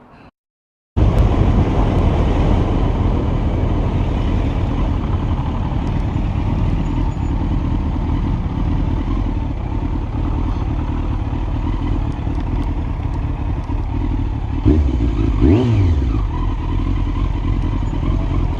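Motorcycle running at speed with a steady, loud noise that starts suddenly about a second in. Near the end the engine note briefly dips and rises again.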